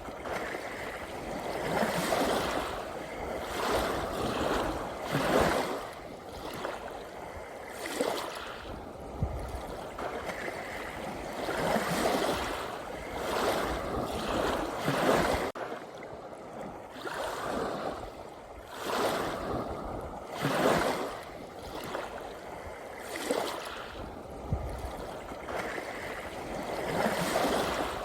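Gentle ocean waves washing in, swelling and fading every two or three seconds, with an occasional low rumble under them.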